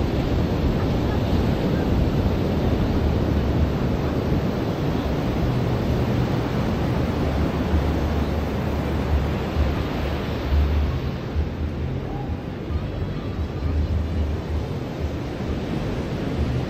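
Ocean surf washing steadily onto a beach, with wind buffeting the microphone in low gusts.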